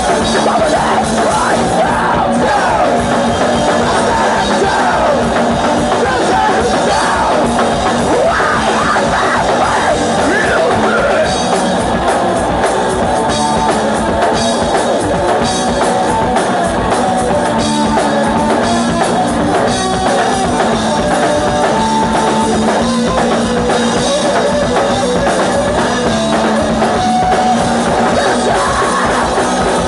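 Hardcore punk band playing live at full volume: distorted guitar, bass and drum kit, with shouted vocals.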